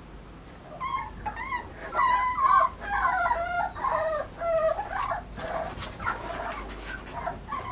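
Puppy whimpering and crying in a string of high, wavering yelps while held for a vaccine injection under the skin of its neck. The cries are loudest a couple of seconds in, then fade to fainter whines.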